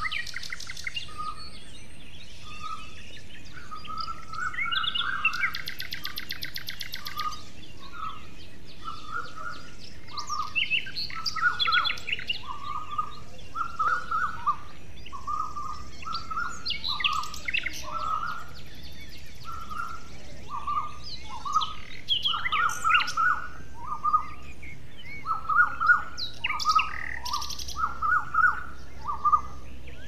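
Birds calling in woodland: one bird repeats a short mid-pitched note over and over, about once or twice a second, while others add higher chirps and a couple of buzzy trills, over a steady background hiss.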